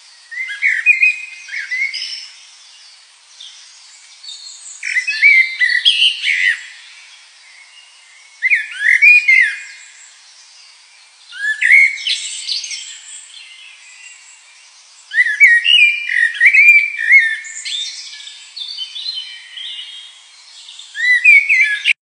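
A songbird singing in repeated phrases of quick whistled notes and trills, each phrase lasting one to three seconds with short pauses between.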